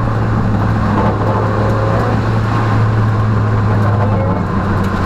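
Peugeot rally car's engine heard from inside the cabin, running hard at a fairly steady pitch over a constant rush of road noise.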